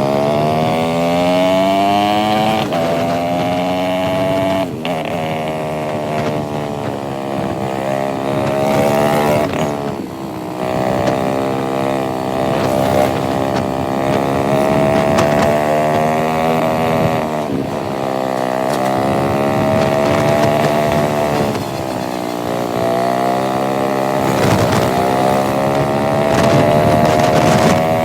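Motorcycle engine of a modified cafe racer, running under way. Its pitch climbs steadily, then drops sharply four times, roughly every five to seven seconds.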